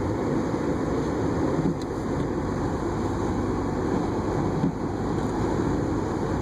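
Steady car cabin noise while driving: engine and tyres on a snow-covered road giving a low, even rumble, with a couple of faint small clicks.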